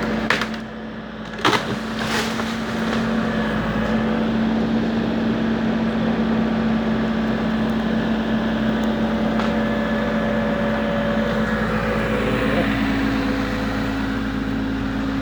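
A steady mechanical hum, like a motor running, with a few sharp knocks in the first two seconds.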